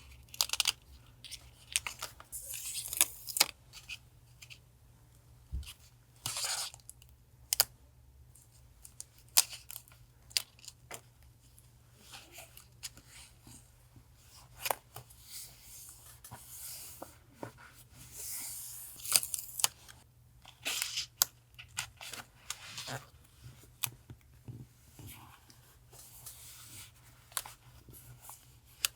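Paper being handled, torn and cut with scissors: irregular crisp rustles, snips and sharp clicks, over a steady low hum from a refrigerator.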